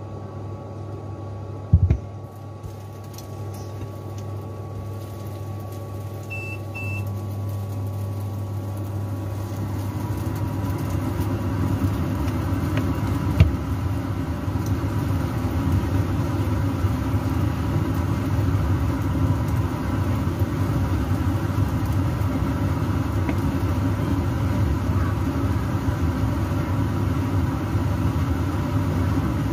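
Glutinous rice cake pieces frying in oil in a pan, the sizzle growing louder over the first ten seconds and then holding steady over a low hum. There is a knock just under two seconds in, another about halfway, and a short double beep about six seconds in.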